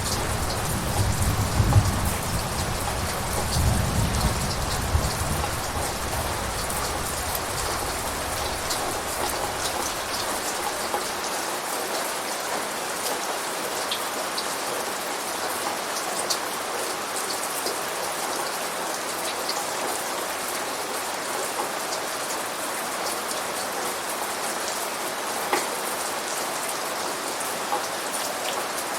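Steady rain with scattered individual drop ticks. A low rumble of thunder is heard in the first few seconds and dies away by about ten seconds in.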